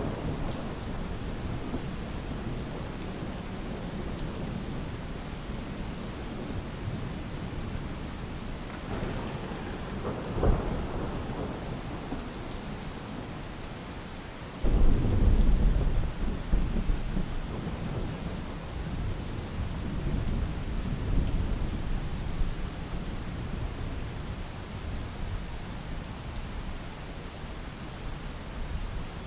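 Steady heavy rain with thunder: a rumble swelling about ten seconds in, then a sudden loud clap about halfway through that rolls on for several seconds.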